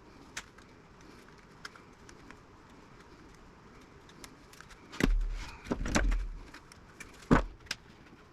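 Metal radio parts being handled and worked apart on a bench. After a few faint clicks comes a run of loud clanks and knocks about five seconds in, then one sharp knock near the end.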